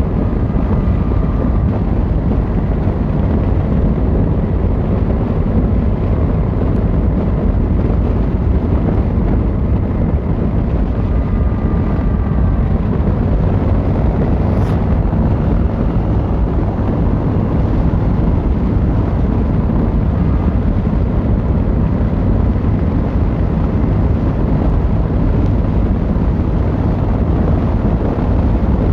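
Yamaha XVZ1300 Royal Star's V4 engine and exhaust running steadily under way, with wind on the microphone.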